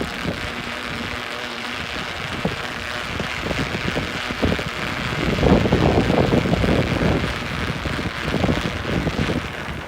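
Blizzard wind rushing and buffeting the microphone, with heavy gusts strongest around the middle.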